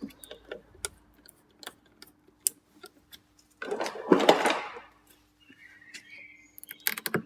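Small clicks and knocks of hand tools and plastic interior trim being worked loose from a VW T4 door. About four seconds in comes a longer scraping rustle, the loudest sound, and there is a cluster of clicks near the end.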